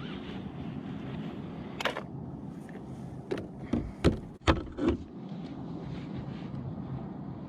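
A handful of sharp knocks and clunks, about five between two and five seconds in, over a steady low hum.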